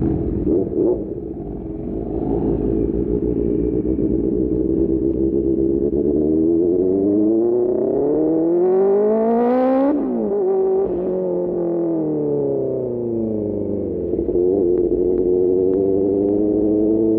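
QJMotor SRK600 inline-four motorcycle engine with an Austin Racing GP1R exhaust, running steadily, then revving up in one smooth climb in pitch for about four seconds before winding back down and settling again.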